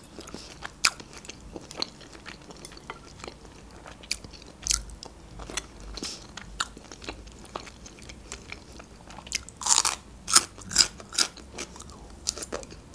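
Close-miked eating sounds: wet chewing with scattered lip smacks and clicks, then a quick run of louder crunching bites into fresh cucumber about ten seconds in.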